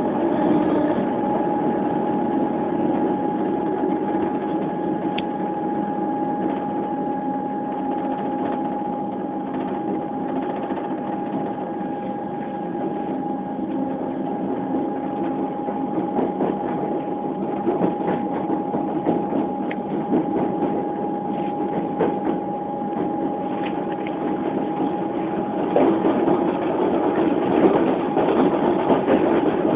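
Electric suburban train running, heard from inside the carriage: a steady whine over the rumble of wheels on the track. About 26 seconds in, the track noise gets louder and busier with clicks and knocks from the wheels.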